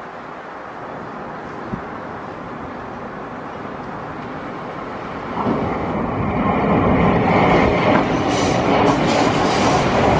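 KTX-Eum high-speed electric multiple unit (EMU-260) approaching, its noise building slowly, then passing beneath at speed from about halfway through: a loud steady rush of wheels on rail, with a run of sharp clicks near the end.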